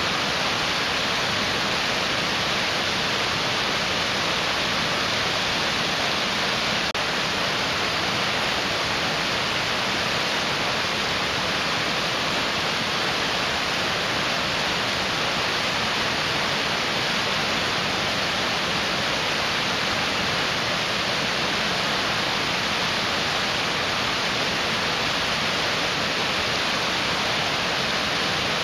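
Mountain stream rushing: a steady, dense water noise with no breaks.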